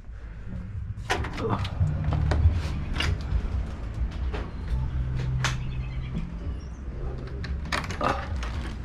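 Motorcycle engine idling with a low rumble, under a run of clicks and knocks from handling gear close to the microphone.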